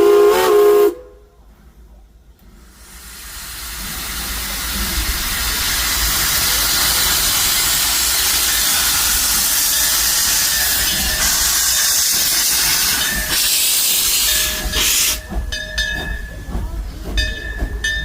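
A steam locomotive's whistle ends its blast within the first second. After a short lull, a loud hiss of escaping steam builds over a couple of seconds and then holds steady, breaking up near the end.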